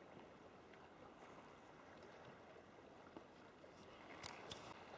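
Near silence: faint water sounds around a sea kayak, with a couple of small paddle splashes near the end.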